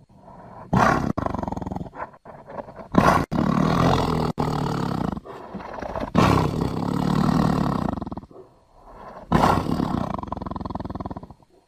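Tiger roaring: four long, throaty roars about three seconds apart, some breaking off abruptly.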